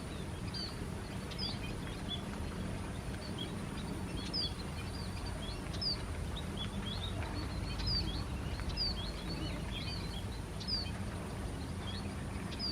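A flock of small birds chirping: many short, sharp high calls, several a second, some falling in pitch. A steady low rumble runs under them.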